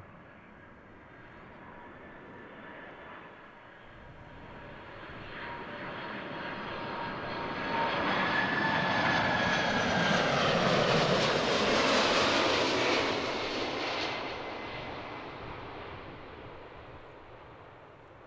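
Boeing 747's four jet engines passing by: a jet roar with whining tones that swells to its loudest about eleven to twelve seconds in, the tones sliding down in pitch as it passes, then fades away.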